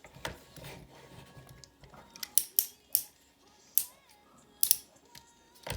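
Hard plastic parts of a transforming robot toy figure clicking as it is handled and posed: about half a dozen sharp, separate clicks, bunched in the middle and toward the end.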